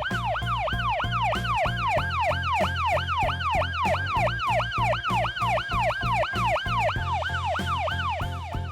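Police car siren in a fast yelp, about three or four quick rise-and-fall sweeps a second, over background music with a steady beat.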